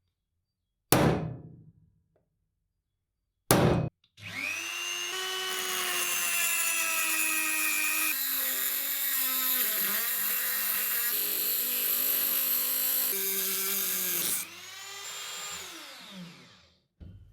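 Two sharp knocks, then an electric power tool spins up, runs steadily with a whine for about ten seconds, and winds down after it is switched off.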